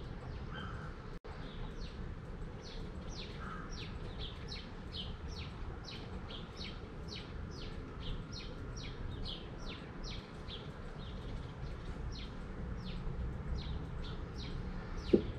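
A songbird calling without pause in a rapid series of short, falling chirps, about two to three a second, over a low steady background rumble. A single sharp tap near the end is the loudest thing.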